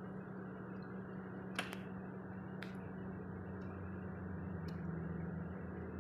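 Electric kettle heating water: a steady rushing noise with a low hum and a few sharp ticks.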